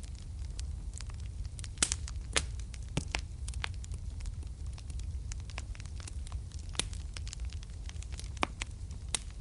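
Wood fire in a fireplace crackling, with irregular sharp pops (the loudest about two seconds in) over a steady low rumble.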